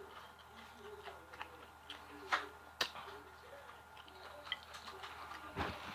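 Close-up chewing of crunchy Walmart fried chicken: scattered crisp crunches and mouth clicks, with two sharp crunches a little past the middle standing out.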